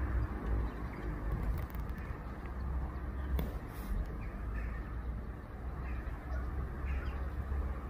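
Several short bird calls, most of them in the second half, over a steady low outdoor rumble.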